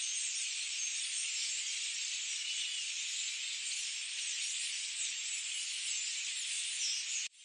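A dense, high-pitched chorus of many birds chirping and twittering at once, steady throughout. The sound drops out abruptly for an instant near the end.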